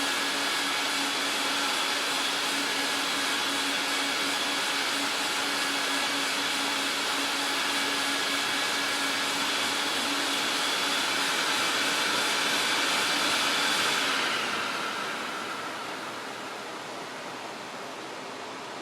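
A rug-cleaning machine's electric vacuum motor runs steadily, a rush of air with a constant whine. About 14 seconds in it is switched off: the whine fades and the sound winds down.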